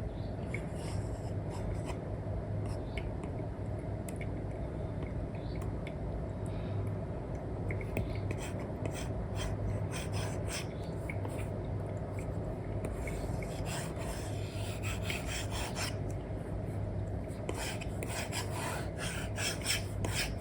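Apple Pencil with an Elecom nib scratching and tapping across a paper-like screen film on an iPad: quick drawing strokes in busy runs, heaviest in the second half, over a steady low hum.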